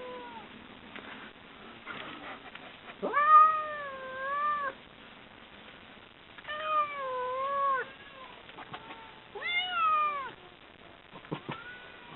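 Domestic cats yowling at each other through a window in a hostile standoff: three long, wavering yowls, the first the loudest, with a few faint clicks near the end.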